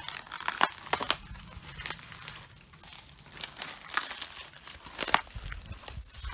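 Red cabbage leaves being crushed underfoot, crackling and crinkling, with sharp snaps about half a second in, at about one second, and a loud one about five seconds in.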